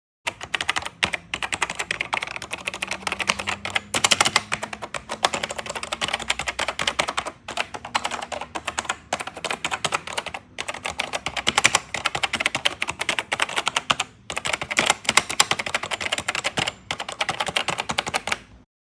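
Fast continuous typing on a vintage computer keyboard: a dense stream of key clicks, broken by a few brief pauses.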